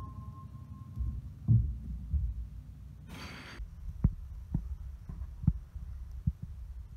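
A series of low thumps and knocks, about six spread over several seconds, with a short burst of hiss about three seconds in.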